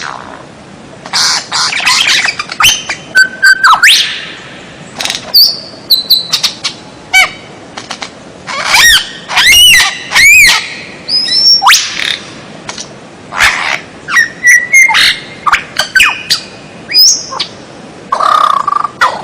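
Songbird song: a varied run of loud whistles, sharp chirps, short trills and notes that sweep up and down in pitch, broken by brief pauses.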